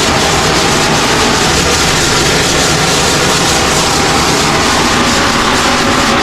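A motor-driven tool running steadily, giving a loud, even rushing noise with no breaks.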